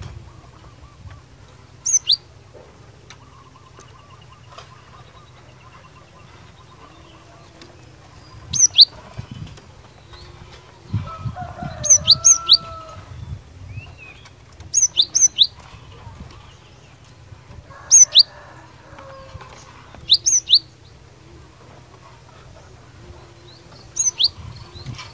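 Cinereous tit (glatik batu) giving sharp, high call notes, each a quick downward slur, in short clusters of one to four repeated every few seconds. Fainter, lower animal calls sound in the background.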